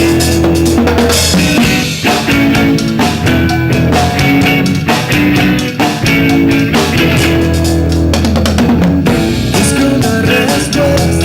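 Live rock band playing, with a full drum kit pounding out the beat under sustained bass and electric guitar notes.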